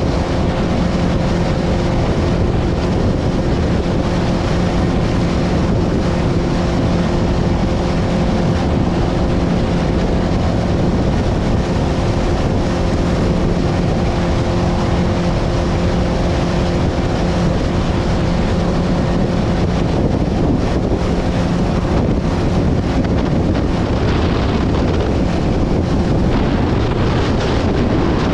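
Boat motor running at a steady pitch under heavy wind noise buffeting the microphone. The motor's hum fades out about two-thirds of the way through, leaving the rush of wind.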